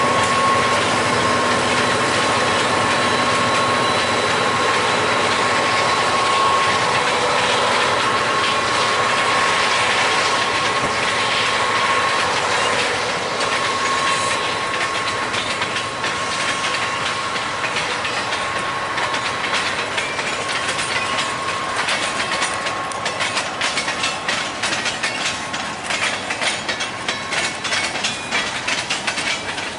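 Freight train rolling past at close range. Diesel locomotive engines run steadily in the first half, then boxcar wheels click over the rail joints in a quick, steady rhythm that grows plainer toward the end.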